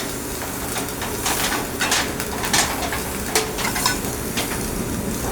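Electric arc welding on a steel stiffener plate: a steady frying crackle with sharper pops and clicks every so often.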